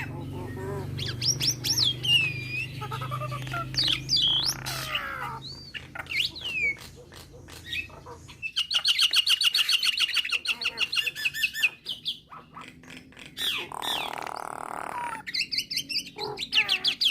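Nias hill myna calling: loud whistles that glide up and down, broken by a fast run of rapidly repeated notes about eight and a half seconds in. A low steady hum lies underneath for the first few seconds.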